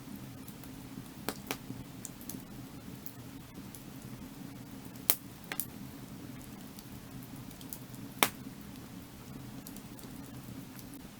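Firewood burning with sharp, scattered crackles and pops over a steady low rush of the fire; the loudest pops come about five and eight seconds in.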